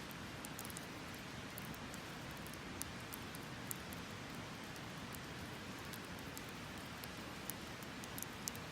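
Wood fire crackling: a steady hiss with scattered sharp pops and snaps.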